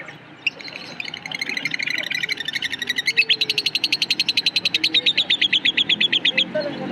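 Lovebird chirping: a run of high, sharp chirps that quickens into a fast, even series of about eight a second, then stops abruptly near the end.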